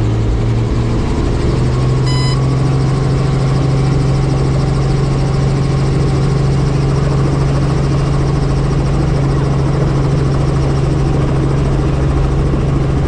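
Helicopter running steadily, a strong low hum that steps up slightly in pitch about a second in. A short beep sounds about two seconds in.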